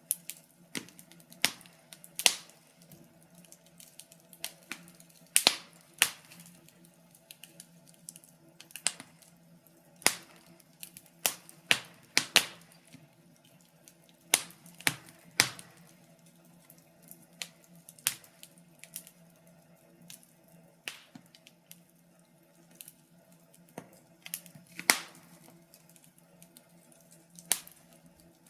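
Wood fire crackling in a fireplace: irregular sharp pops and snaps, some loud, over a faint steady hum.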